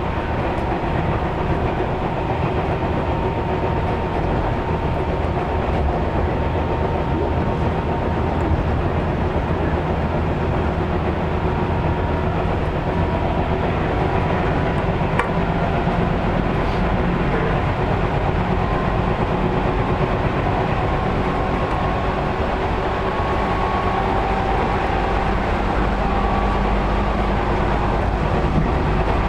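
Tobu 6050 series electric train running, heard from inside the passenger car: a steady rumble of wheels on rail, with faint tones that slowly climb in pitch over the second half. A single sharp click comes about halfway.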